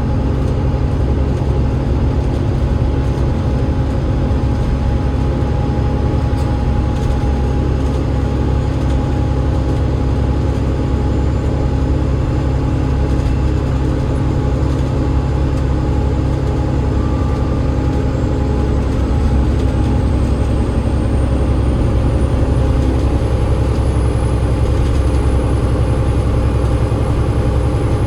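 Cummins ISL8.9 diesel engine of an Enviro500 double-decker bus running steadily under way, with a deep drone and a held whine. It gets slightly louder about two-thirds of the way through, while a faint high whine rises in pitch.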